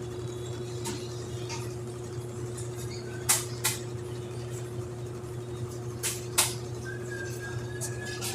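Samsung 10.5 kg washing machine running its final spin: a steady motor hum with a constant whine, and two pairs of sharp clicks, a few seconds apart.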